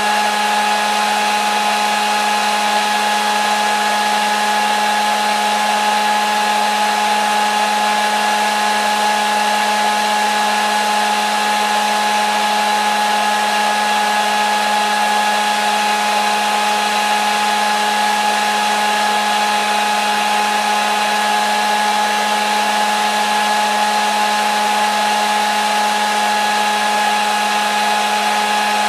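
Hair dryer running steadily: an even rushing of air with a constant motor hum, unchanging throughout.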